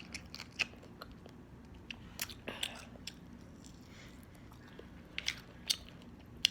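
Fried chicken being bitten and chewed close to the microphone: scattered crisp crunches and mouth clicks, at uneven intervals, with a few sharper ones about two seconds in and near the end.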